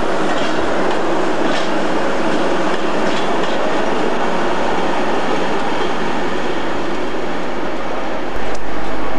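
Class 90 electric locomotive moving slowly through the station: a steady rumble of wheels on the rails, with a few clicks as the wheels cross rail joints. About a second before the end the sound jumps abruptly louder, with a low hum.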